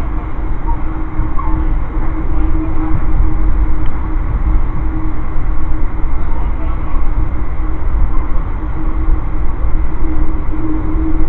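Amtrak passenger car heard from inside while running at speed: a steady low rumble of wheels on rail with a constant hum.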